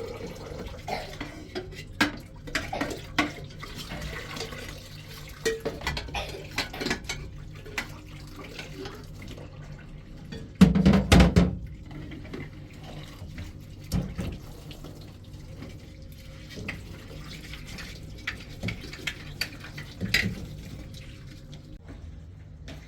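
Kitchen work at a sink: scattered knocks and clinks of dishes and pots with water running or being poured in short spells, the loudest spell about eleven seconds in.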